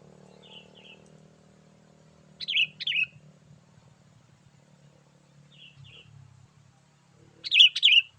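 Sooty-headed bulbul calling in short two-note phrases: two loud phrases, each with a fainter phrase before it.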